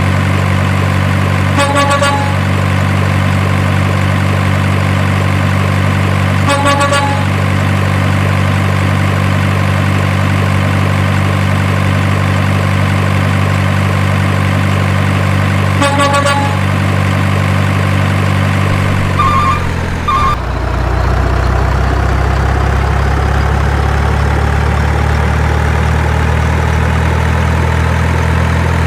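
Truck engine running steadily, with three short horn honks spread through the first part and two quick higher beeps about two-thirds in. Right after the beeps the engine note drops lower and a faint whine rises slowly.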